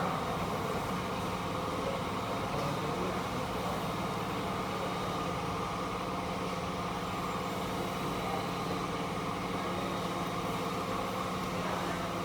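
Engine idling steadily, an even hum that holds one pitch without revving.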